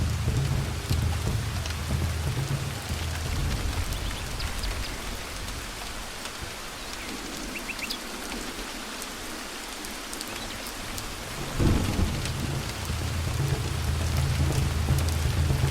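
Thunderstorm: steady rain with rolling thunder. The low rumble dies away in the middle, then a sharp thunderclap comes about three-quarters of the way through and the rumble rolls on.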